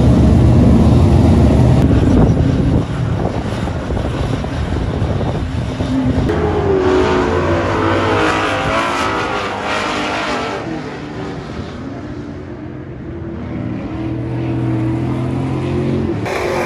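Dirt-track race car engines running and revving, their pitch rising and falling as they pass; the sound dips about twelve seconds in and returns steadier near the end.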